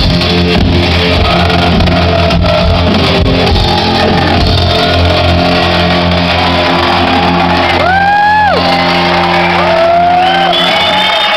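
A live band's final held synth and guitar chord ringing loud through the hall's PA, cutting off near the end as the song finishes. Shouts and a couple of whistles come from the crowd over it, the first about eight seconds in.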